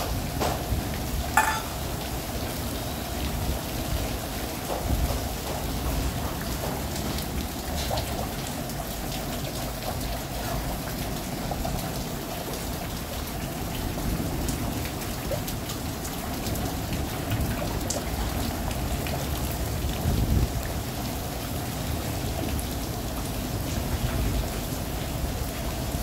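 Monsoon rain falling steadily on rooftops, with scattered sharper drip clicks, the loudest about a second and a half in.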